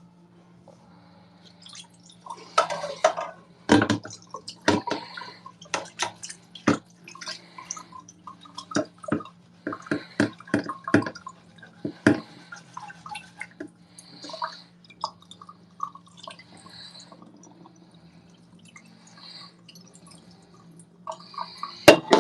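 Dishes and utensils knocking and clinking in a kitchen sink during hand-washing, with water running and dripping. A steady low hum runs underneath.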